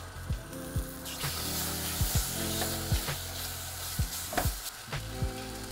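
Chopped eggplant sizzling as it goes into a saucepan of hot butter-and-flour roux, with a silicone spatula stirring and knocking against the pan again and again.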